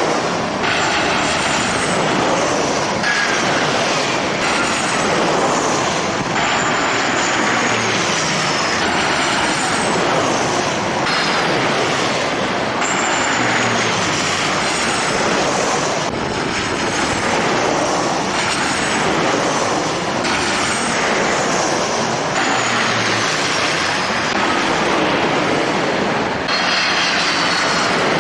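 Jet airliner engines running: a loud, steady rush with high whines that slide down in pitch again and again.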